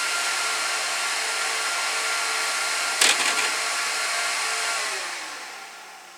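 Gigabyte R180-F34 1U server's cooling fans running at a steady high whine, a click about three seconds in, then the fans spinning down with falling pitch as the server powers off.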